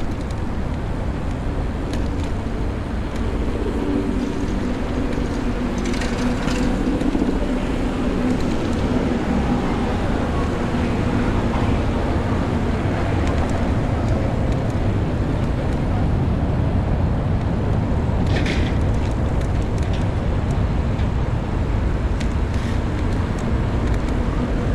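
City street traffic and wind rumble on the microphone of a moving bicycle. A passing vehicle's engine hum swells and fades over several seconds in the first half, and two short hisses come through, about six seconds in and again past the middle.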